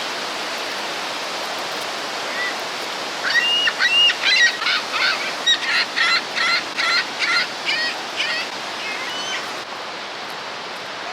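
Steady roar of Niagara Falls' rushing water. From about three seconds in until near the end, a bird calls over it in a rapid run of short calls, about three a second.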